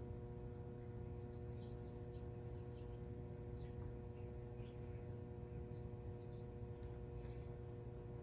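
Quiet, steady low hum with a few faint, brief high chirps, most of them in the second half.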